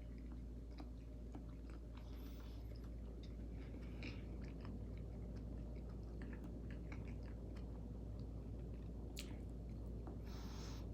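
Close-miked chewing of a buttery meal of eggs, potatoes and shrimp, with wet mouth clicks and smacks, over a steady low hum. There is a short breathy rush near the end.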